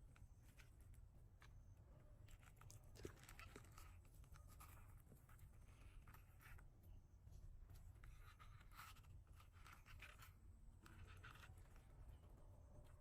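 Faint, irregular scraping and crunching of a hoof knife paring horn from a cow's hoof, over a low hum.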